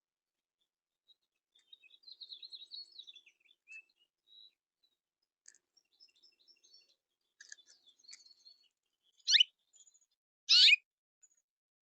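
Backyard birds chirping and twittering in short high notes, then two loud calls sweeping down in pitch, about a second apart, near the end.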